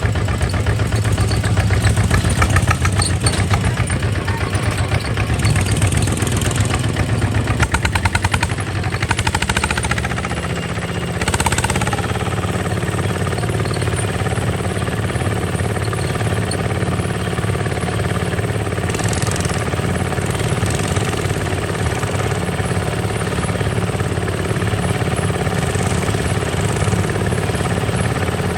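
Kubota RT 140 DI single-cylinder diesel engine running with a rapid, steady beat. It is louder and rougher for the first ten seconds or so, then settles to an even, quieter running note.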